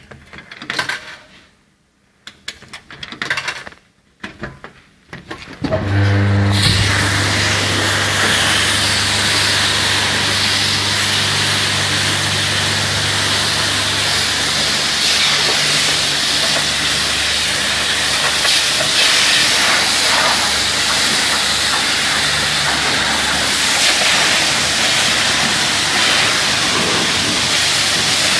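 Self-service car wash machine's high-pressure water pump starting about six seconds in, then running steadily with a low motor hum under the loud hiss of the water jet spraying. A few short scattered sounds come before it starts.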